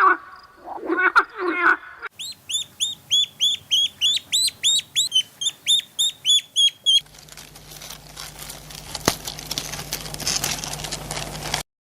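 A dog barking a few times, then a bird's rapid high-pitched chirps, about four a second, for around five seconds, followed by a growing rustling noise.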